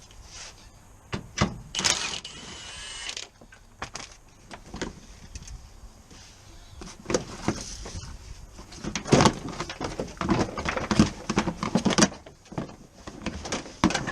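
Irregular knocks, clicks and clatter of hand tools and car parts being handled, busiest about two thirds of the way through, with a short rasping sound about two seconds in.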